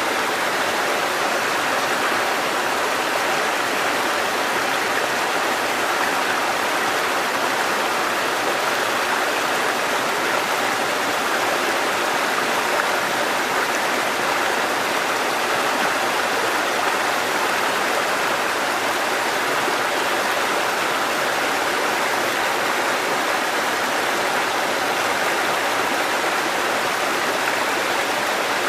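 Water cascading over rocks in a mountain stream, a steady, unbroken rush with no letup.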